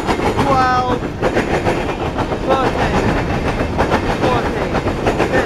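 Coal cars of a freight train rolling past close by, a steady loud rumble of steel wheels with fast clicking over the rail joints. A few short squealing tones break in over it.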